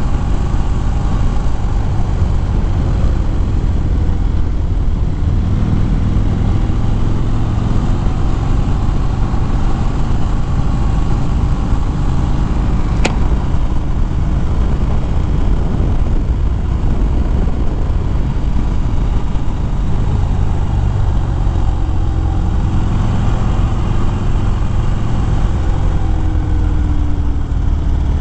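A 2013 Harley-Davidson Fat Bob's V-twin engine running steadily on the road, under a constant rush of wind and road noise. There is a single sharp click about halfway through.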